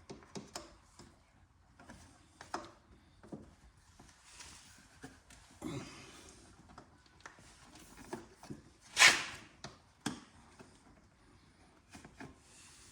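Hands handling and fitting motorcycle parts: scattered light clicks and knocks with short rubbing noises, and one louder brief scrape about nine seconds in.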